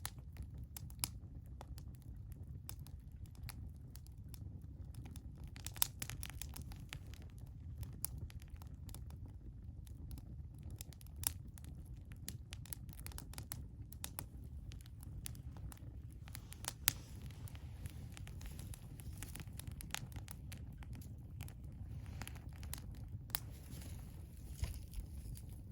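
Wood fire crackling, with scattered sharp pops and snaps over a steady low rumble; a soft hiss joins in for a while past the middle.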